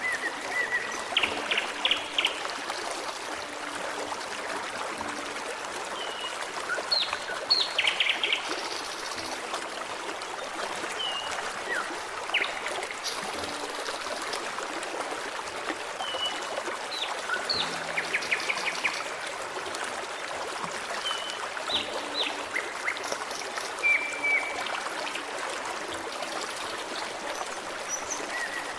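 Steady babble of a forest stream, with songbirds chirping and giving short trills and whistles at intervals over it.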